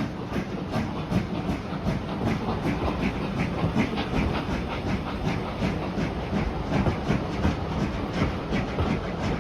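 A train running along the track, with a steady regular beat of about two to three strokes a second.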